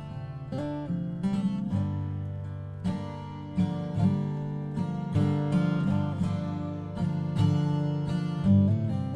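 Acoustic guitar being played: strummed chords and picked notes, the chord changing about every second.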